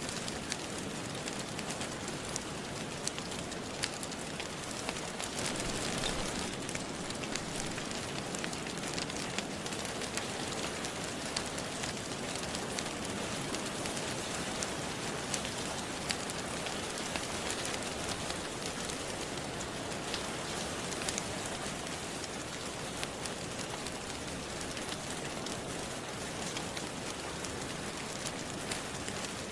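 Steady rain with scattered crackles of a fireplace fire mixed in.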